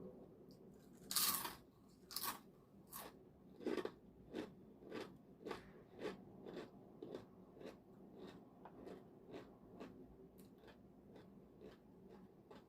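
Biting into and chewing crunchy snack chips up close: a loud crunch about a second in and a few more strong bites, then steady chewing crunches about two a second that grow fainter toward the end.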